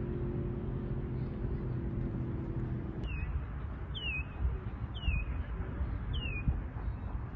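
A bird calling outdoors: four short calls that slide down in pitch, about a second apart, starting about three seconds in. Under them is a steady low rumble of wind on the microphone, and a faint hum that stops as the calls begin.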